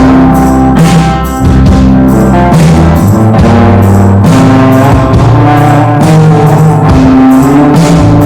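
Rock band playing loud with no vocals: drum kit hits keeping a steady beat under sustained bass and guitar chords.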